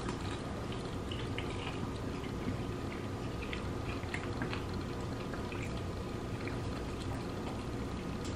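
Close-miked eating sounds: chewing and lip-smacking on fried chicken, a run of small wet mouth clicks over a steady low hum.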